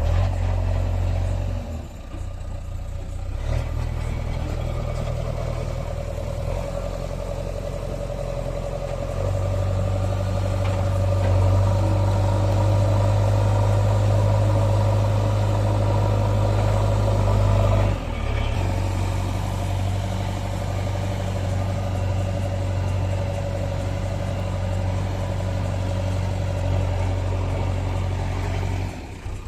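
Engine running steadily. It grows louder about nine seconds in and drops back suddenly about eighteen seconds in.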